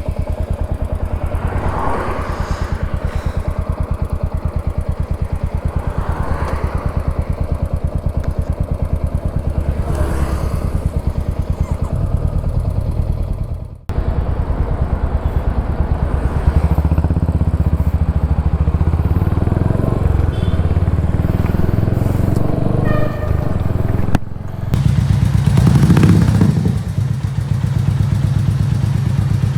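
Royal Enfield Hunter 350's single-cylinder engine idling steadily with its valve clearance just adjusted, and the tappet noise much reduced. It is briefly revved about 26 seconds in.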